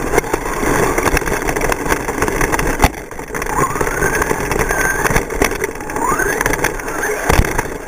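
Radio-controlled short course trucks running on a track, their motors whining and revving up and down as they race past, with a few sharp clicks.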